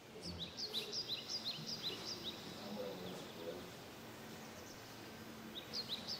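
A small bird calling in quick runs of short, high chirps, several a second: one run in the first two seconds and another starting near the end, with faint outdoor background between.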